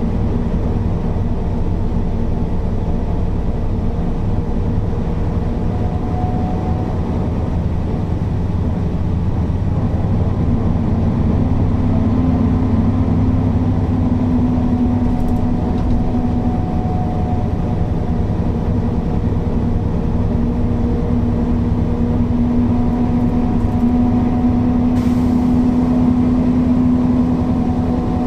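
Mercedes-Benz O408 bus's diesel engine running steadily under way, a loud drone whose pitched hum grows a little stronger about ten seconds in and again later on.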